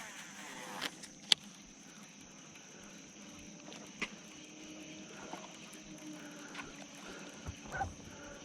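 Faint steady high-pitched drone of insects, with a few sharp clicks, the clearest about a second in and again about four seconds in.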